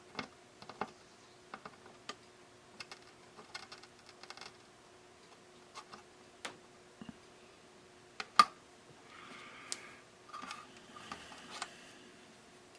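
Light, scattered clicks and taps of small hand tools such as tweezers and a soldering iron against a radio circuit board during soldering, with one sharper click about eight seconds in and a few short soft hissy patches after it.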